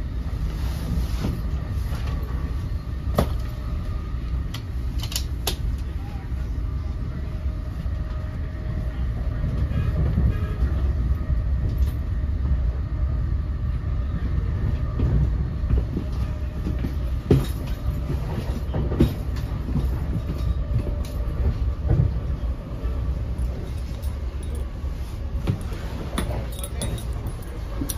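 Inside an NJ Transit Multilevel passenger coach running at speed: a steady low rumble of the train in motion, with a few sharp clicks and knocks scattered through it.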